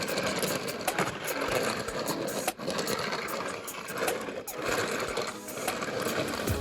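Diecast toy cars rolling and sliding on a toy truck, a rapid, steady rattle of small wheels with many small clicks.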